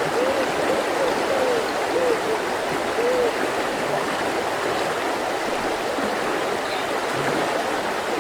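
Mountain river flowing steadily, a constant rushing of water. During the first three seconds a run of short, low tones rises and falls over it, about two a second.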